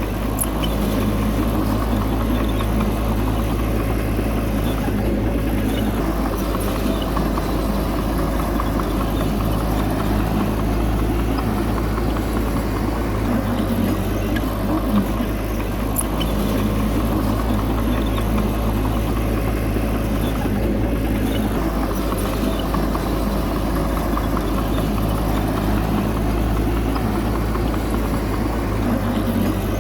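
Bulldozer's diesel engine running steadily, a low even drone.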